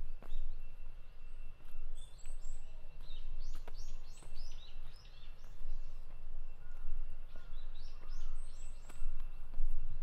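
Small birds chirping in several short runs of quick, high, downward-sliding chirps, with footsteps on a path.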